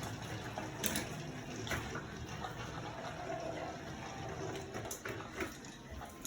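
Several battery-powered Thomas & Friends toy trains running together on plastic track: a steady whirring of small motors and wheels, with a few short clicks and knocks as they roll over track joints.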